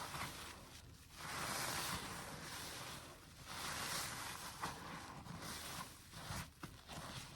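A wet, soapy sponge being squeezed and released again and again: a squishing, crackling hiss of foam and water that swells and fades in pushes of a second or two, with a few small pops.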